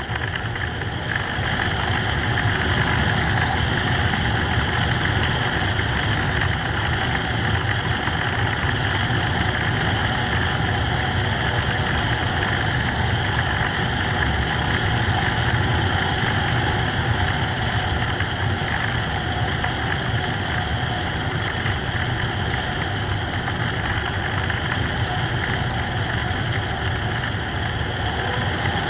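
Onboard sound of a radio-control FPV plane in flight: a steady rush of noise with a constant high whine over it, unchanging throughout.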